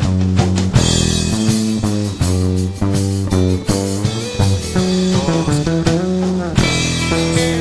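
Psychedelic rock instrumental break: electric guitar lead with bending notes over bass guitar and drums.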